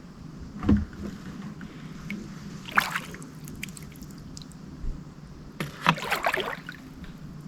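Kayak paddle strokes in the water: two splashy strokes about three seconds apart, with a low knock about a second in.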